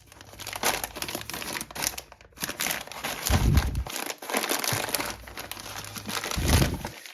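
Plastic pasta bag crinkling and rustling as it is handled, with two dull low thumps, one around the middle and one near the end.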